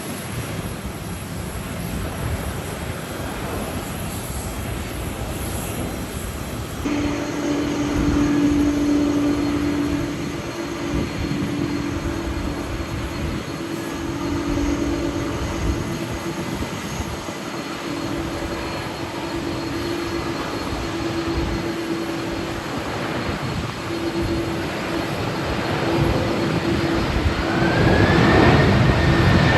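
Jet airliner engines on approach in strong typhoon wind, a steady rushing noise with a low two-tone hum. Near the end the sound grows louder and a rising whine comes in as the Airbus A330-300 draws close on its landing approach.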